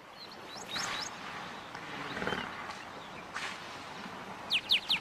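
Savannah wildlife sound: birds giving quick rising whistles, then three sharp falling whistles near the end, which are the loudest sounds. A brief low animal call comes about two seconds in.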